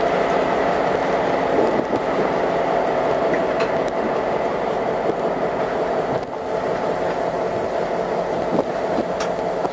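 Added sound effect of a freight train rolling past: a steady rolling noise of wheels on rail with a few light clicks.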